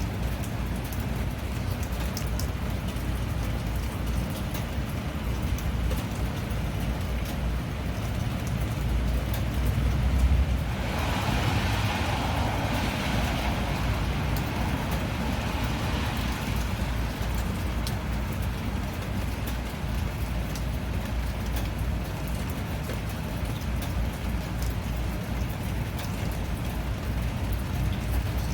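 Steady rainfall: an even hiss of rain with scattered drop ticks over a low rumble. About ten seconds in, a louder rushing hiss swells up and fades away over several seconds.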